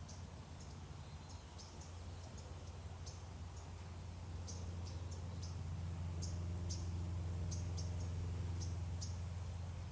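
Short, high-pitched chirps repeating at an irregular pace, several every second or so, over a steady low hum that grows louder about halfway through.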